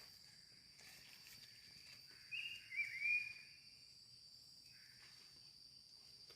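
Faint, steady high-pitched drone of forest insects, with a short high chirping call about two to three seconds in and a weaker one near five seconds.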